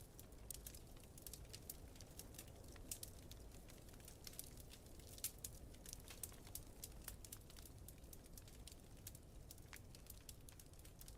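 Faint wood fire crackling, with irregular sharp pops and snaps scattered throughout, over a low steady rumble of blizzard wind.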